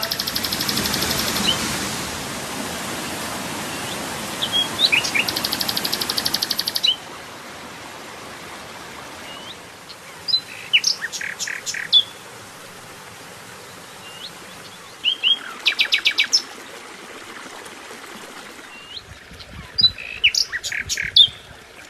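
A songbird singing the same short phrase about four times: a few quick rising whistles, then a fast dry trill. For the first third a loud steady rushing noise lies under it, then stops abruptly and leaves a quieter background.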